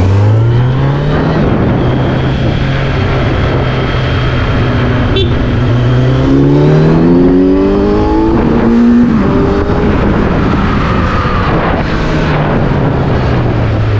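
Vehicle engine under way, accelerating. Its pitch rises, holds, climbs again and drops about nine seconds in, as at a gear change, then holds and falls away near the end as it eases off.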